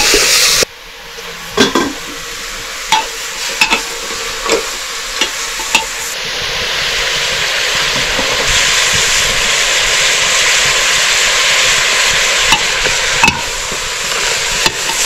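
Food sizzling as it fries in a pan, stirred with a spoon that clicks and scrapes against the pan several times. A louder hiss cuts off just under a second in, and the sizzle then grows louder over the next several seconds.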